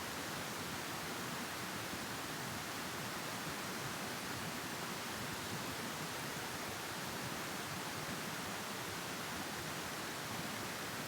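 Steady, even hiss with no bird calls or other distinct sounds.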